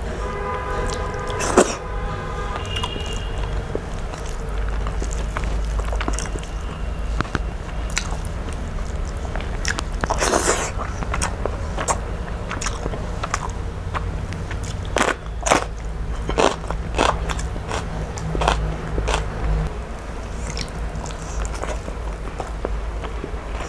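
Close-up chewing and biting of rice and fish curry eaten by hand, with many short, wet mouth clicks scattered throughout, over a steady low hum.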